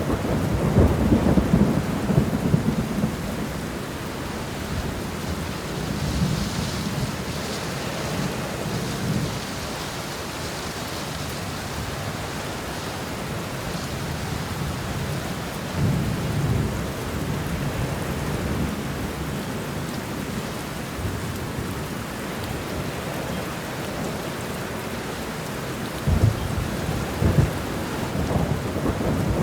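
Steady rain falling through a thunderstorm, with low rolling thunder rumbling at the start and again about halfway. A couple of sharper thunderclaps come near the end.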